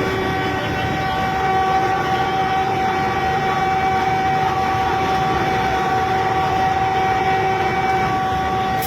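Vande Bharat train's horn held on one steady note over the rumbling noise of the train running.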